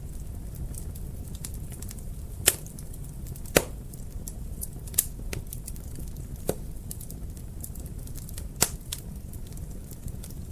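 Wood fire burning in a fireplace: a steady low rumble with scattered sharp crackles and pops, five of them louder than the rest.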